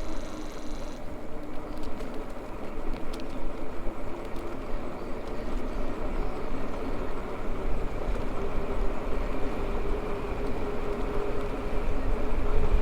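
Maxtron Mule folding e-bike riding along: the electric motor's steady whine over tyre and wind noise. The whine rises slightly in pitch and grows stronger about two-thirds of the way through.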